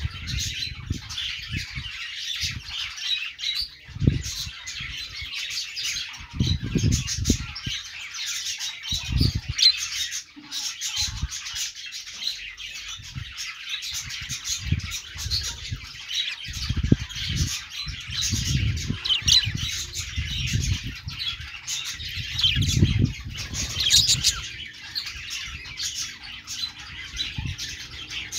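Budgerigars chirping and chattering continuously, with squawks mixed into the busy, unbroken calling. Low thuds come and go underneath several times.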